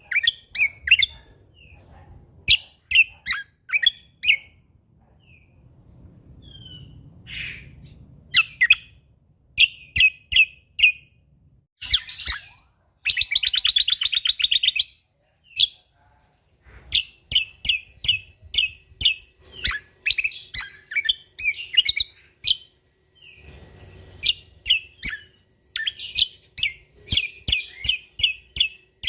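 A cucak kombo (kecial kombok) songbird singing, with bursts of sharp, high chirps and clicking notes broken by short pauses. About 13 seconds in there is a fast trill of rapidly repeated notes.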